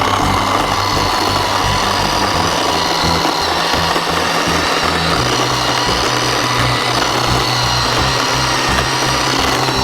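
Bauer 10-inch 20-volt cordless electric chainsaw running steadily with a high motor whine as it cuts dead, dry locust limbs into chunks.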